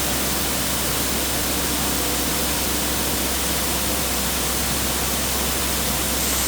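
Steady, even roar of Angel Falls' falling water and spray, a constant rushing noise with no breaks.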